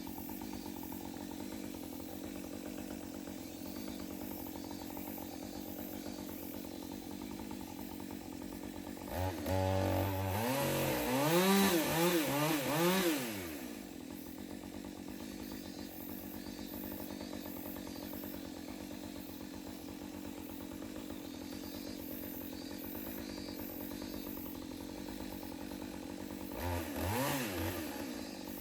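Two-stroke chainsaw idling steadily. About nine seconds in it is revved hard for several seconds, its pitch rising and falling, then drops back to idle. A second short rev comes near the end.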